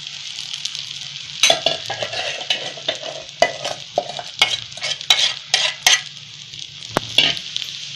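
Soaked sago pearls sizzling in hot ghee in a kadhai, with a steady frying hiss. From about a second and a half in, a spatula scrapes and knocks against the pan repeatedly as the pearls are stirred.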